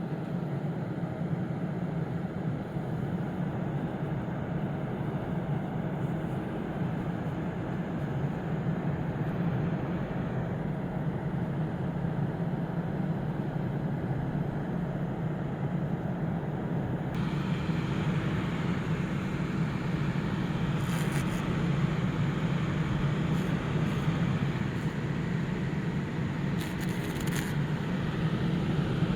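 Small electric ventilation fan running with a steady hum and airy hiss. Past the middle it suddenly turns louder and hissier, the sign of its speed being turned up, and a few light clicks come near the end.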